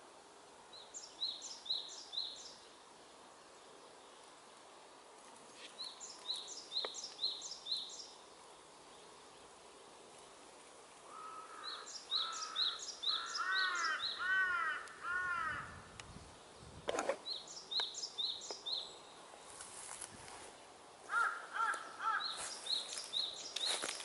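Wild birds singing: one bird repeats a short, high phrase of four or five quick notes about every five seconds, and a second, lower-pitched bird gives a run of arched, slurred notes about halfway through and again near the end.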